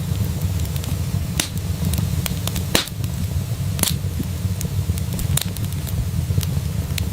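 Wood fire crackling in a fireplace: scattered sharp pops and snaps over a steady low rumble of the flames, with two louder pops about three and four seconds in.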